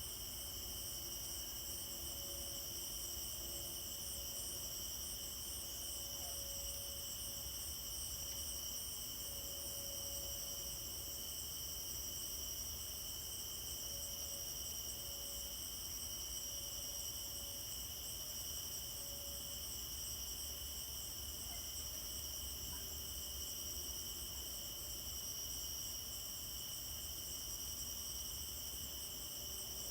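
Steady chorus of crickets and other insects, several continuous high trilling bands with a fast pulse in the highest, over a faint low rumble.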